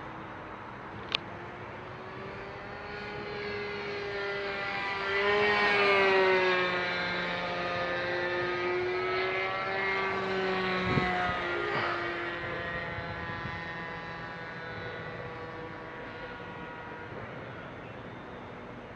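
Gasoline-engine single-propeller RC model airplane flying past. The engine's buzzing drone grows louder to a peak about six seconds in, its pitch wavering, then fades away. A sharp click about a second in.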